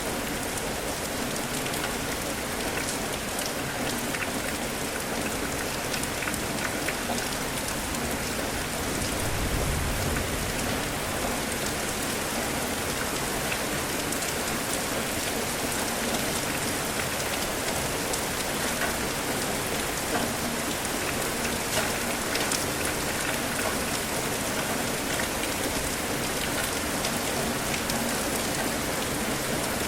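Steady rain falling, with many individual drops ticking on a surface throughout. A brief low rumble comes about ten seconds in.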